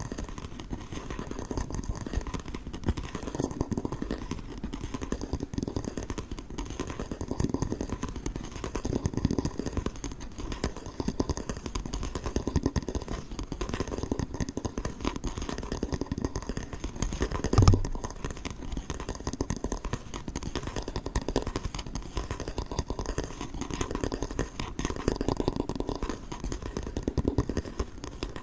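Close-up ASMR handling of an inch rule: quick, dense tapping, scratching and clattering against the ruler, with one louder knock about two-thirds of the way through.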